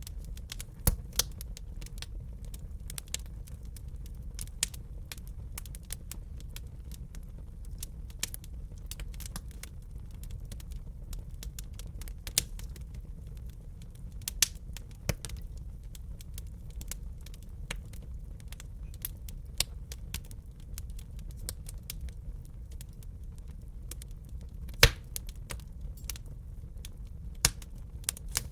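Wood fire crackling in a fireplace: irregular sharp snaps and pops over a steady low rumble of burning. A few pops stand out louder than the rest, the loudest about 25 seconds in.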